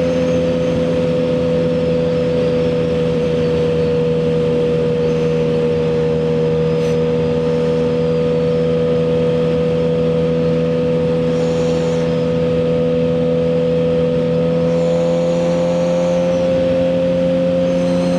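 Suzuki GSX-R1000R inline-four with a CS Racing full exhaust, running at a steady cruising speed, its engine note holding level with a slight dip and rise. An even rush of wind noise sits underneath.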